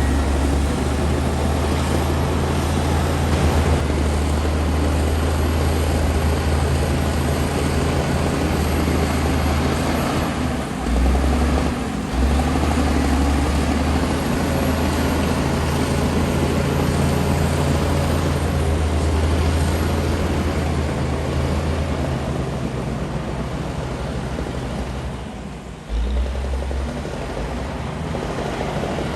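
Komatsu D60P bulldozer's diesel engine running steadily under load while working soil. The engine sound drops off and picks up again twice: about eleven seconds in, and again near the end.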